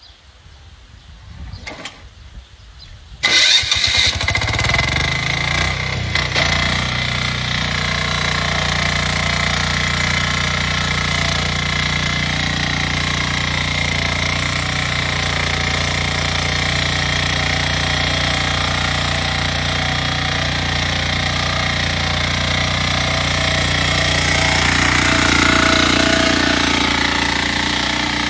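A farm machine's engine starts about three seconds in, then runs steadily and evenly, getting a little louder near the end.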